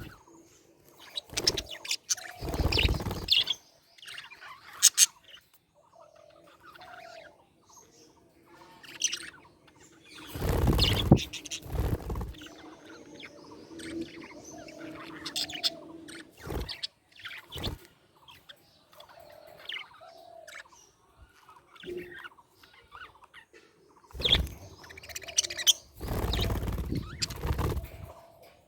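Budgerigars chirping and chattering in many short, scattered calls, broken by several louder bursts of rustling noise, the longest about ten seconds in and near the end.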